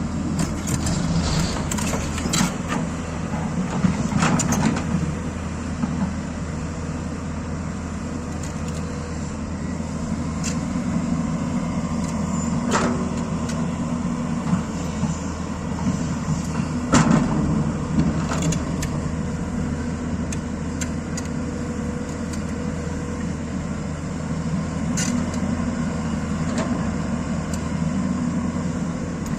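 Excavator diesel engine running steadily, with a few sharp knocks, the loudest about halfway through.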